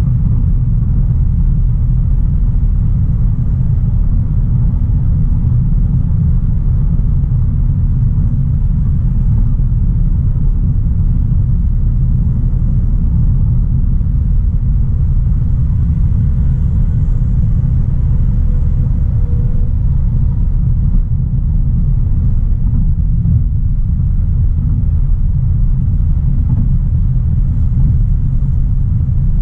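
Audi A3 Sportback's 1.4 TFSI turbocharged four-cylinder car driving at a steady pace: a loud, even, low rumble of engine and road noise with no revving.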